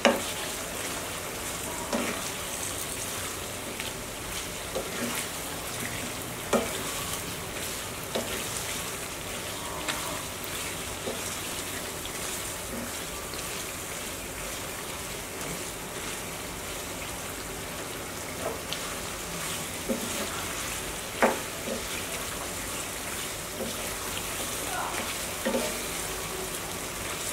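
Chicken pieces in a yogurt and spice masala sizzling in oil in a pan while being stirred and turned with a wooden spatula, with scattered knocks and scrapes of the spatula against the pan, the loudest about 21 seconds in. This is the kosha stage, the meat being fried down in its spices until the oil separates.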